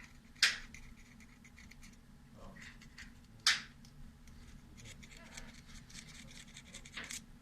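Sharp clicks and light scratching as a folding knife's small metal parts are handled and cleaned: two loud clicks about three seconds apart and a smaller one near the end, with faint scraping between them.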